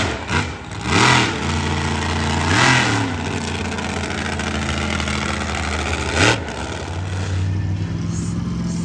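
Monster truck engine running with three quick throttle blips, about a second in, near three seconds and just past six seconds, each sweeping up and back down. Between the blips it holds a steady low note.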